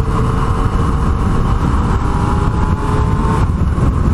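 Yamaha MT-09's three-cylinder engine running at a steady cruise under heavy wind rush on the rider's microphone, with a faint engine whine that rises slightly and fades out about three and a half seconds in.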